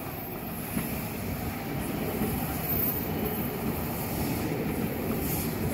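Taiwan Railway EMU900 electric commuter train running past on the tracks: a steady rumble of wheels on rails that slowly grows louder.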